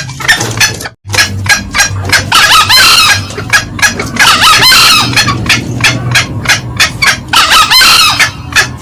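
Green junglefowl calling loudly as a lure call: a fast run of short, repeated cackling notes, with louder, fuller bursts three times that fit the crow of the male.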